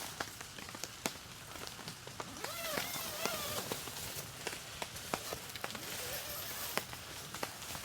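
Steady rain with scattered sharp drip ticks. A short, arching pitched call, perhaps a bird or a voice, comes about three seconds in.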